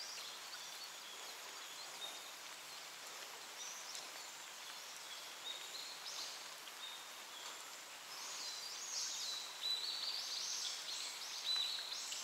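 Faint outdoor ambience with small birds chirping: short high notes in quick stepped series, growing busier over the last few seconds.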